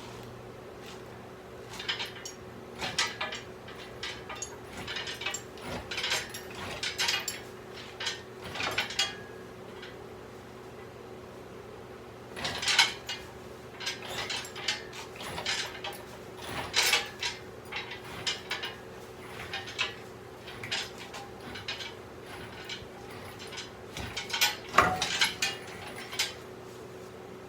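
Irregular clanks, clicks and knocks of metal parts and tools being handled, in clusters with a short pause near the middle, the loudest knocks near the end. A steady faint hum runs underneath.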